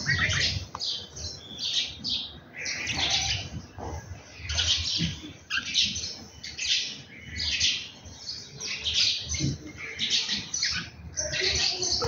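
Small birds chirping busily: many short, high-pitched calls in quick, irregular clusters.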